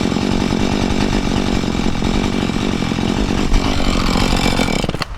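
Two-stroke chainsaw running at high revs through a felling cut, then stopping abruptly near the end.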